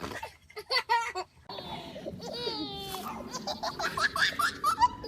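A baby laughing in short, quick bursts, strongest in the second half.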